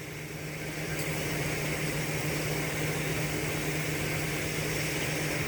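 Steady low hum of an idling vehicle, with a steady hiss over it that grows louder about a second in.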